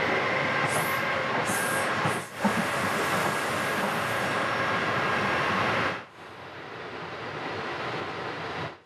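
Sanyo Electric Railway local train running, heard from inside the front car: a steady rumble and hiss of wheels on rail. Brief high-pitched sounds come about a second in. The sound drops sharply at about six seconds and then slowly grows louder.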